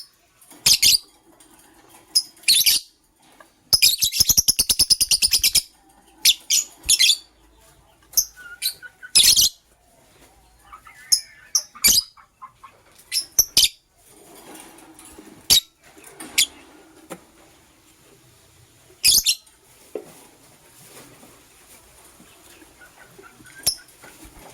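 Lovebirds chirping: short, shrill, high chirps in scattered bursts, with a rapid even run of repeated chirps about four seconds in.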